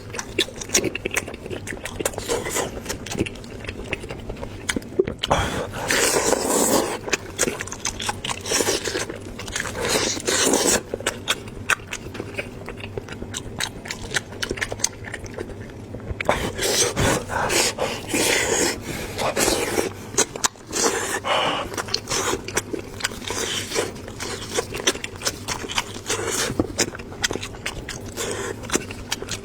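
Close-miked mukbang eating of braised lamb head: biting and chewing meat, with many irregular mouth clicks and smacks.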